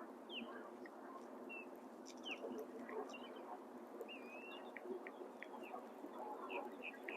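Birds chirping and calling: many short, quick downslurred chirps and one longer whistled note about four seconds in, over a steady low hiss.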